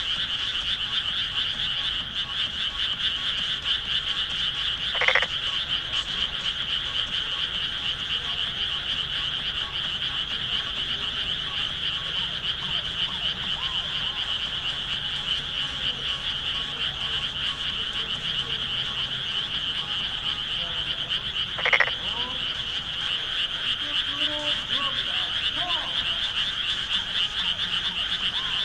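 A dense chorus of many frogs calling together from the rice paddies, as a steady high-pitched trilling wall of sound. Two brief, louder calls stand out about five seconds in and again about twenty-two seconds in.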